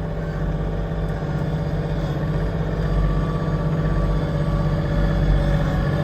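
Diesel engine of a Kioti CK2610 compact tractor running steadily under load, heard from inside the cab, as the front blade pushes snow.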